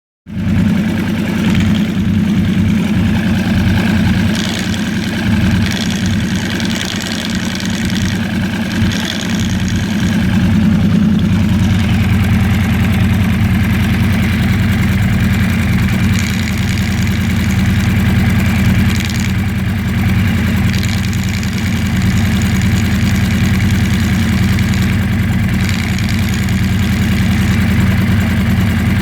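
Yamaha R1's inline-four engine idling steadily with a rattle, the noise that the owner is trying to show.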